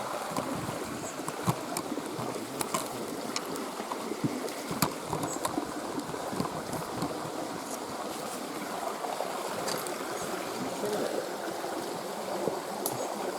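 Running water of a stream, a steady babbling, with a few scattered light clicks and snaps over it.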